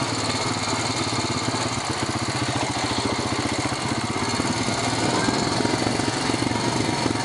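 Four-wheeler (ATV) engine running steadily at low speed, with a fast even pulsing and some rattle over a rough trail.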